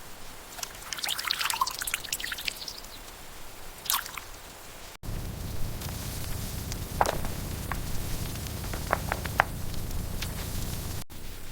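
Liquid dripping and wet squishing, with scattered small clicks, in two short takes. The second take has a steady low hum underneath.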